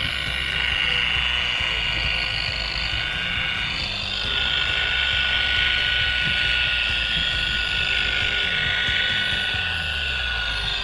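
Electric buffer running with a stainless steel wool pad, scrubbing over an aircraft exhaust stack: a steady motor whine with the rasp of the wool on the metal.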